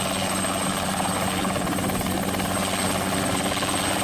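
Helicopter sound effect, a steady rotor-and-engine whir accompanying a toy helicopter.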